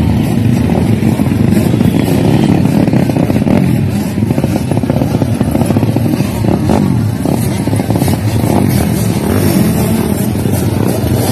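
Motocross dirt bike engines running, with their pitch rising and falling as they rev.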